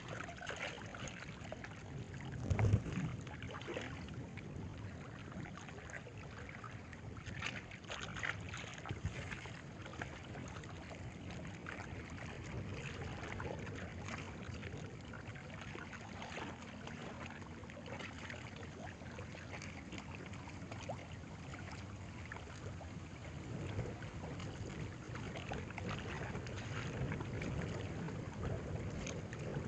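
Steady wind and water noise on the microphone, with scattered small knocks and clicks and one louder thump about three seconds in.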